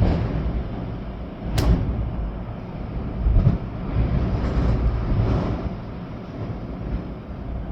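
Storm wind gusting with rain, with a heavy low rumble that swells and eases. A single sharp tap about a second and a half in.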